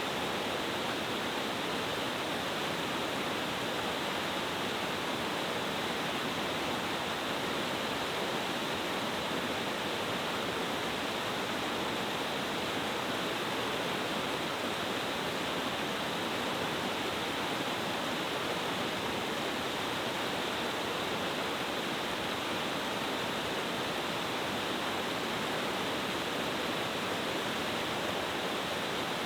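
Mountain stream waterfall cascading over several tiers of rock: a steady, unbroken rush of falling water.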